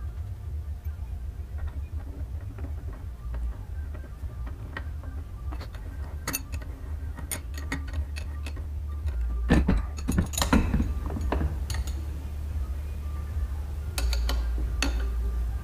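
Metal parts of an oil-filter housing clicking and knocking as they are handled and refitted, with the loudest run of knocks about two-thirds through and a few more near the end. A steady low hum and faint background music sit underneath.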